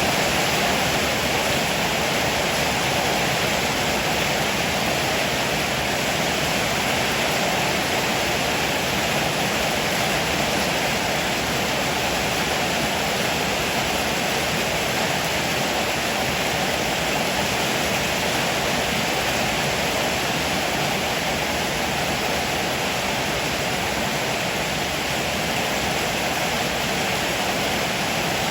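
Heavy rain pouring down steadily, an even rushing hiss with no thunder claps or other breaks.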